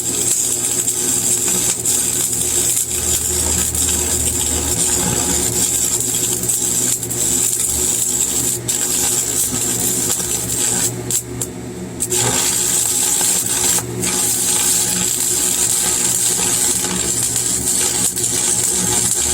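Stick arc welding with a 7018 electrode: the arc crackles and sizzles steadily over a low hum, cutting out briefly twice past the middle.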